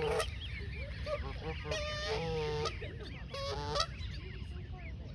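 Adult geese honking three times, the middle call the longest, a defensive alarm at people who came too close, with many small high peeps from goslings.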